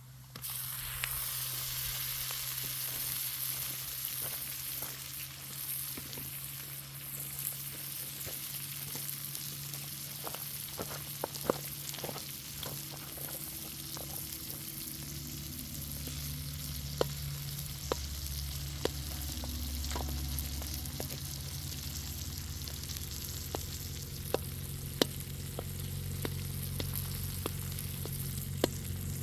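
Food sizzling in hot oil in a pan and being stirred: a steady frying hiss that begins abruptly, with scattered sharp clicks and pops through the second half.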